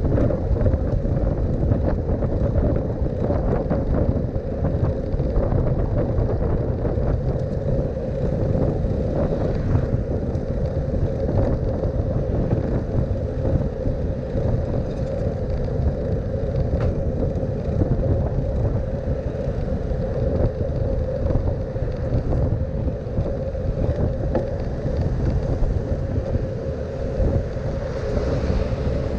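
Steady low wind rumble on the microphone and road noise from a bicycle riding through city traffic, with a constant hum running underneath.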